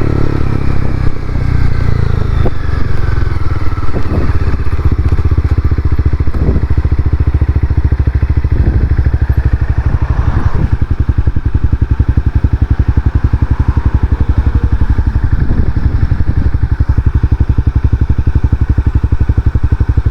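Honda CBR300R single-cylinder engine winding down over the first couple of seconds and then idling steadily, with its even pulsing firing note and a few faint knocks.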